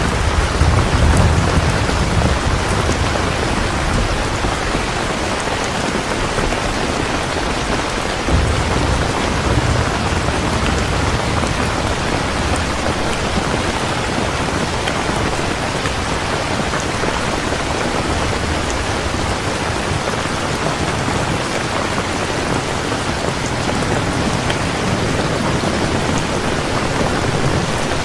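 Heavy rain falling steadily, with low rolls of thunder: one fading away in the first couple of seconds and another rumbling about eight to eleven seconds in.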